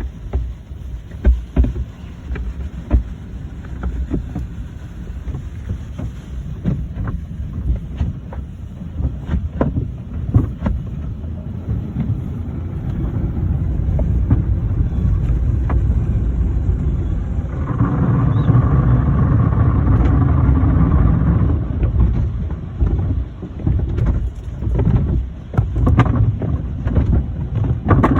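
Automatic car wash heard from inside the car: water spray and scrubbing equipment drumming against the body, with many irregular knocks. It grows louder and is loudest for a few seconds past the middle, with a brighter hiss and a steady whine.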